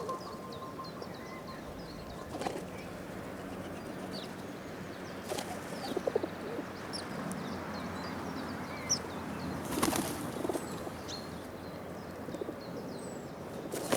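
Pigeons flapping their wings in several short bursts, with small birds chirping in the background.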